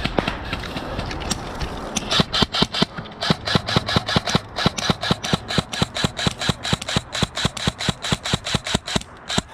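Airsoft rifle firing a steady string of rapid shots, about five a second, starting about two seconds in and stopping shortly before the end as the rifle runs out of ammo.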